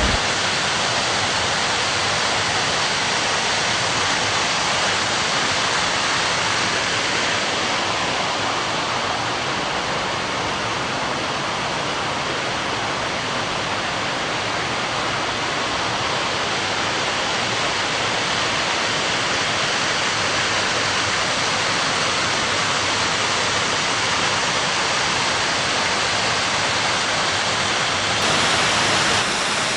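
Waterfall running steadily: a constant rush of falling water with no breaks or distinct events.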